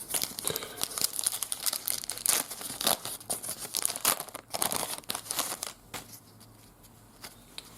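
Paper trading card pack wrapper being torn open and crinkled by hand, a dense crackling rustle for about six seconds that stops near the end.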